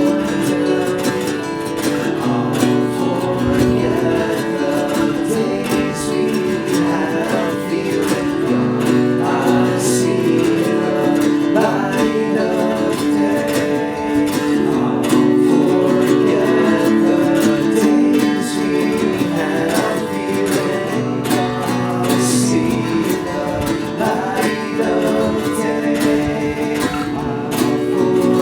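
Live acoustic band music led by strummed acoustic guitar, playing steadily.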